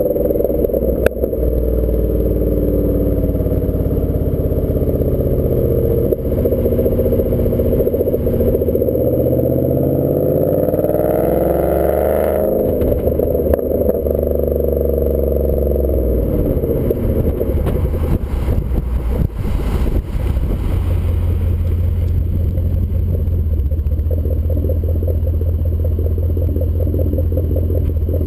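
2014 Ford Mustang GT's 5.0 V8 running through a Roush axle-back exhaust while driving, the revs rising and falling. The revs climb for several seconds, then drop sharply about twelve seconds in.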